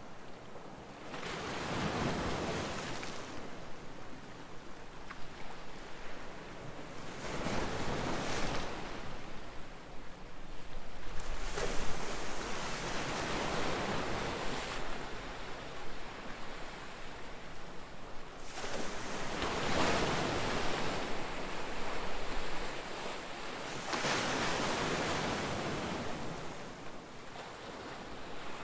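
Ocean waves breaking and washing in: five swells of rushing surf noise a few seconds apart, with quieter lulls between them.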